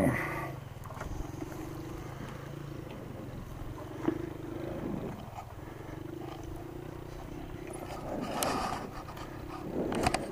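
Yamaha dual-sport motorcycle's single-cylinder four-stroke engine running steadily at low revs. There is a sharp tick about four seconds in and a brief louder swell near the end.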